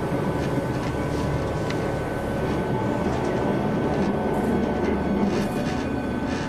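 Passenger train running steadily at speed, heard from inside the carriage: a constant low rumble of wheels on track with a thin steady tone above it and a few faint ticks.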